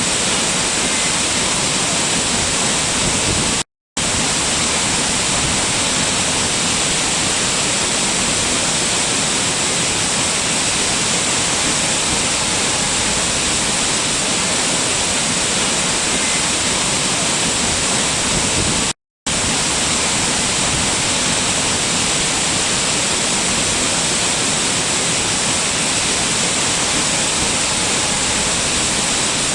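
Steady rushing water from a waterfall or fast stream, an even hiss spread across the whole range. It cuts out to silence for a moment twice, about four seconds in and again about nineteen seconds in.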